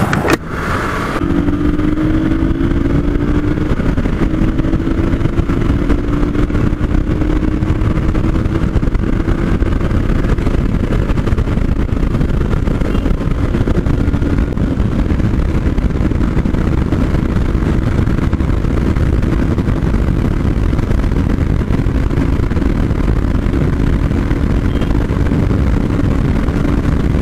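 Hero Xpulse 200's single-cylinder engine held under hard throttle as the bike is pushed toward its top speed on the highway, the engine note climbing slowly and steadily. Heavy wind rush on the rider's microphone runs underneath.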